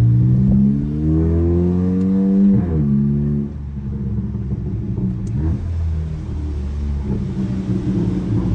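Audi B9 A4's turbocharged engine revving up under acceleration, its pitch rising for about two and a half seconds, then dropping sharply as the throttle is lifted, and running on steadily at lower revs with a low rumble.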